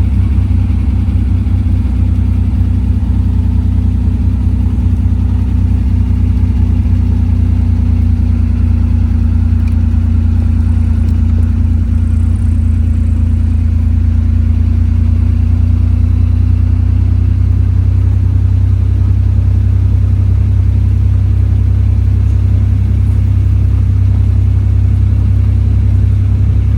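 Austin-Healey BJ7's straight-six engine running steadily with a deep, even note.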